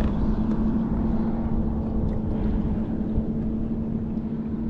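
A boat motor running steadily, a constant hum over a low rumble.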